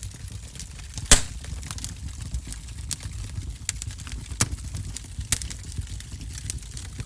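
Wood fire burning in a fireplace: a steady low rumble of flame with irregular sharp crackles and pops, the loudest pop about a second in.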